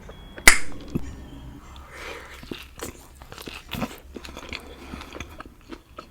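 Close-miked eating of a taco: one loud crunching bite about half a second in, then steady chewing with small wet clicks and smacks.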